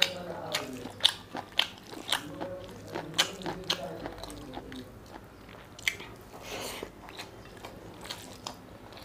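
Close-up mouth sounds of someone eating mutton curry with rice by hand: wet chewing and lip-smacking, with many short sharp clicks scattered through.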